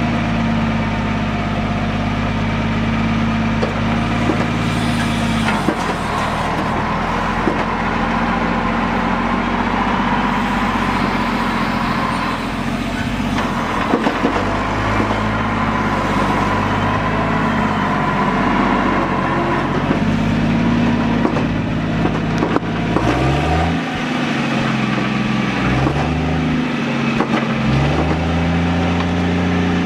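A large vehicle engine running steadily, with a faint steady whine over it for a while in the middle. It is revved up and back down three times in the last several seconds.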